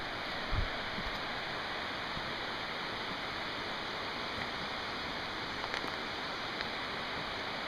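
Waterfall splashing down: a steady, even rush of falling water, with a brief low thump about half a second in.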